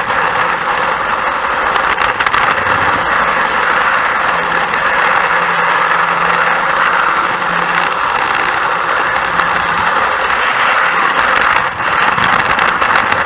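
A train running: a steady rushing noise with scattered small clicks and a faint low hum.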